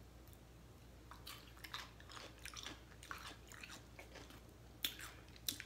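Close-up chewing of crisp cucumber and tomato salad: a run of soft, irregular crunches, with two sharper ones near the end.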